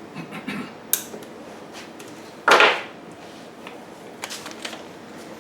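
Handling noises from parts and tools on a workbench: a sharp click about a second in, a louder brief scraping rustle about halfway through, then a few light clicks.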